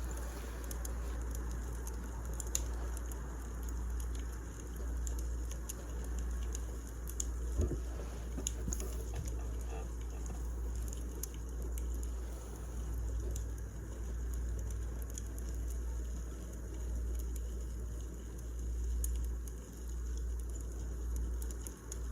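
Wood fire crackling: scattered small clicks and snaps, with a louder pop about seven seconds in, over a steady low rumble.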